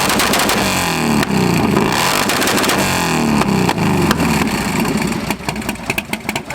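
Motorcycle engine being revved over and over, its pitch rising and falling about once a second. Near the end it breaks into a rapid crackle of sharp pops.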